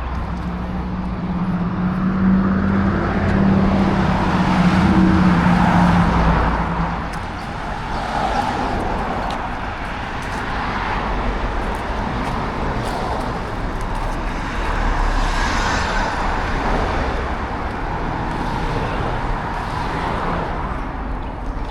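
Road traffic: cars passing one after another, the noise swelling and fading as each goes by, with a low engine hum in the first several seconds.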